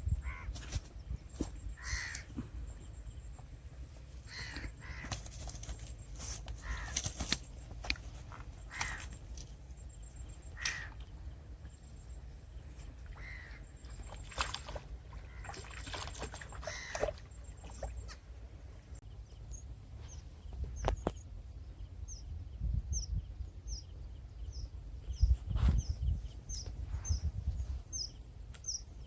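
A crow cawing repeatedly, one call about every two seconds, through the first half. Later a small bird gives a quick series of short, high, falling chirps.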